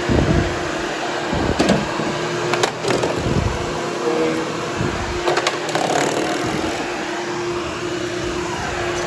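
Hoover Hushtone vacuum cleaner running steadily with a constant hum as it grooms berber carpet, with a few short knocks along the way.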